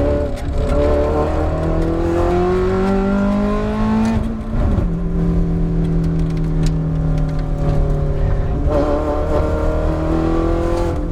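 Ferrari F430 GT race car's V8 engine under hard acceleration, its pitch climbing for about four seconds until an upshift drops it sharply, then running at a nearly steady pitch.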